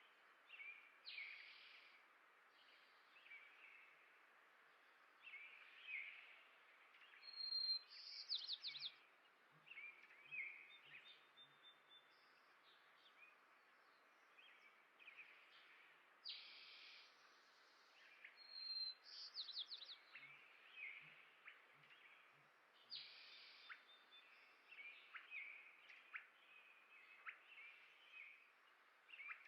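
Small songbirds chirping, a mix of short calls and brief rapid trills, over a faint steady hiss. Two short runs of soft low taps come about a third of the way in and again past two thirds.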